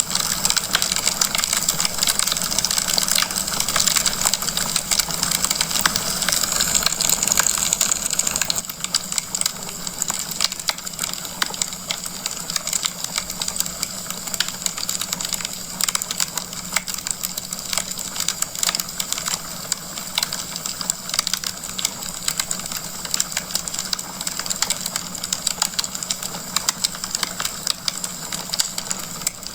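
Burning wood logs crackling in a fireplace: a dense, continuous run of small pops and snaps over a steady hiss. It gets a little quieter about eight seconds in.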